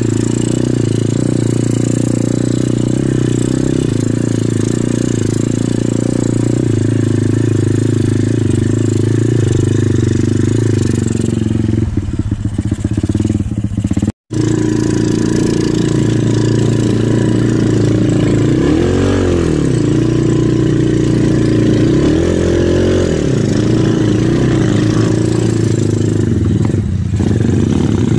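Dirt bike engine running steadily on a trail ride. It breaks off for a moment about halfway, then revs up and back down twice.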